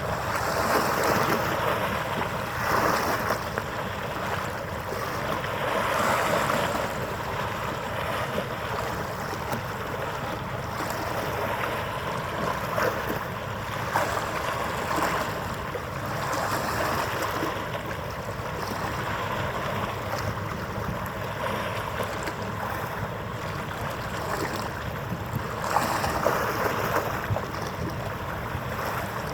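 Wind and lapping water, a steady wash rising and falling in soft swells, with a few small knocks.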